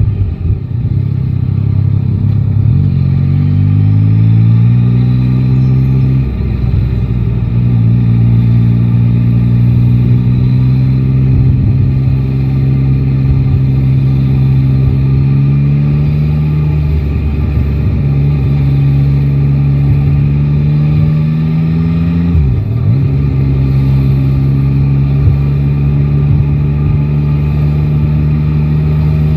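Yamaha Tracer 9 GT's 890 cc inline-three engine pulling up through the gears. The engine note climbs, drops at a gear change about six seconds in, then climbs again more slowly. It shifts or rolls off again around sixteen and twenty-two seconds, then holds a steady note near the end.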